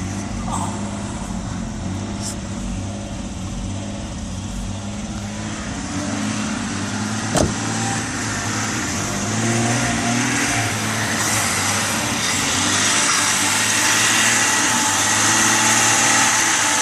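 Jeep Cherokee's 4.0-litre inline-six engine running steadily, getting louder over the second half, with a single sharp click about halfway through.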